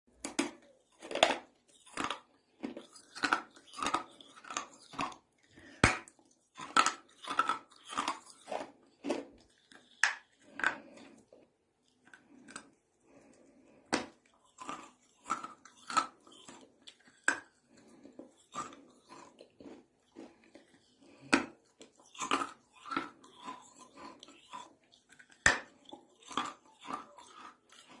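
A person biting and chewing hard pieces of brick close to the microphone: a long run of sharp, gritty crunches one or two a second, with a short pause a little before the middle.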